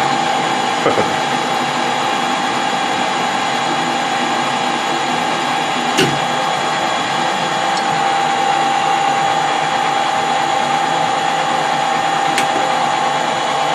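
Metal lathe running steadily with a constant whine from its drive. Two sharp clicks come about halfway through and again near the end.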